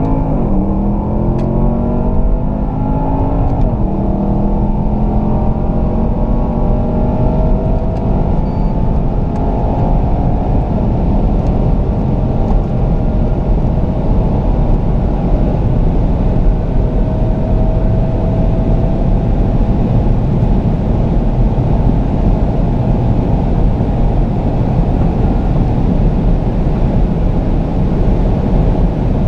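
Twin-turbocharged V8 of a high-performance sedan under full-throttle acceleration at high speed. The engine note climbs slowly through a long gear, under a heavy rush of road and wind noise that takes over later.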